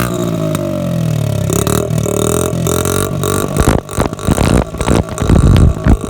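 Dirt bike engine revving through a homemade add-on exhaust pipe, its pitch rising and falling. From about halfway, the exhaust crackles and pops with rapid loud bangs of backfire, the loudest part coming near the end.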